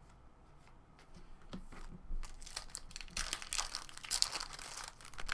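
Wrapper of a 2017 Topps Series 1 baseball card pack being torn open and crinkled. It starts softly about a second in and is loudest in the second half.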